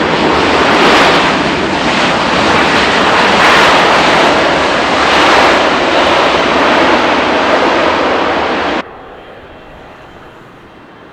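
Jet airliner's engines running loud at close range, a dense rushing noise that swells slightly and cuts off suddenly near the end.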